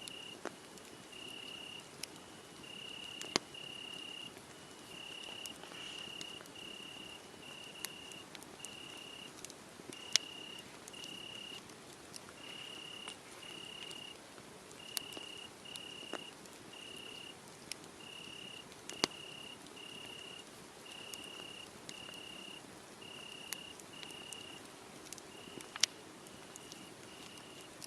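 Crickets chirping at night, an even string of short chirps a little over one a second, over a wood fire crackling with scattered sharp pops.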